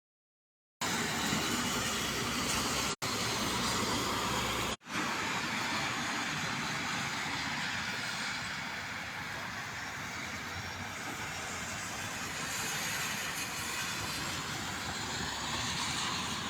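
Heavy rain falling, a steady dense hiss, broken by short silent gaps at the start and around three and five seconds in.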